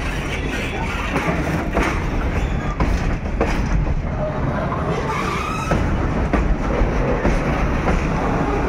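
Freight train wagons rolling past close by: steel wheels clattering over the rail joints with repeated knocks and clanks.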